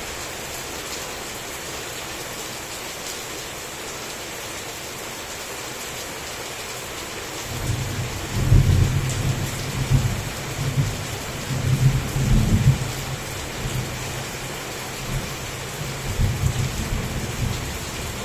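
Heavy rain falling steadily, with thunder rumbling in about seven seconds in, rolling in several low peaks over the next few seconds, and rumbling again near the end.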